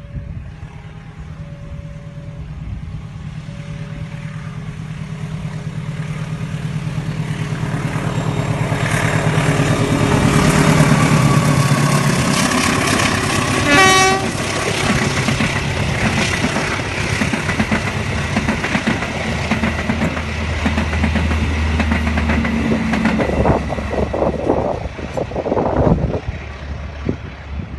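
Passenger train approaching and passing close by: its locomotive's engine and wheels grow louder to a peak about ten seconds in, a short horn blast sounds about fourteen seconds in, then the carriages roll past with steady rumbling and wheel clatter.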